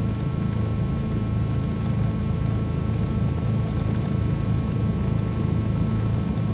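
Twin piston engines of a 1974 Cessna 310Q running steadily, heard from inside the cabin as an even low drone with a faint higher whine.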